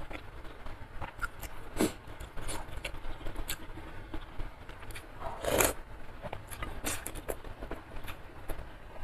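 Close-miked eating sounds from a mouthful of soupy curry noodles: chewing with many small wet clicks and smacks, and a louder wet slurp about five and a half seconds in as the noodles are drawn into the mouth.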